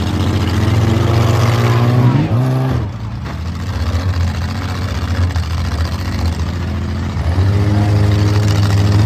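Demolition derby cars' engines running and revving, the pitch rising and falling around two to three seconds in and swelling again near the end.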